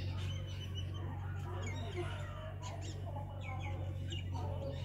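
Small birds chirping in short, quick calls over a steady low hum.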